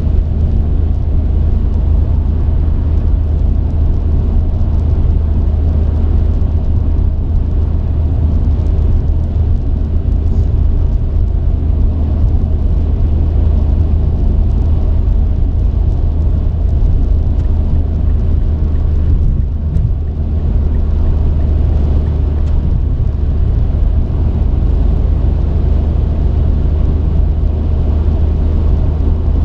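Steady low drone of a truck's engine and tyres on the road while driving, heard from inside the cab, easing slightly for a moment about twenty seconds in.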